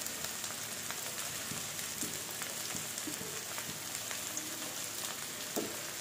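Prawns and sliced onions sizzling in hot mustard oil in a kadai, a steady crackle of many tiny pops as the freshly added, still-wet prawns start to fry.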